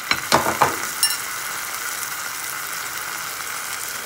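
Snake gourd and onions sizzling steadily in hot oil in a frying pan, with red lentils just tipped in. A few sharp knocks and a ringing clink in the first second or so.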